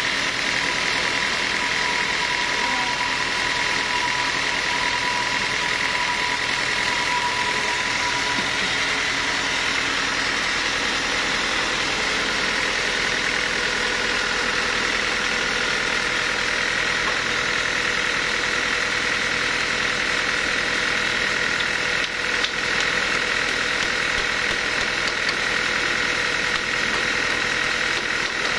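Sawmill machinery running steadily, a continuous mechanical drone with a high, steady whine.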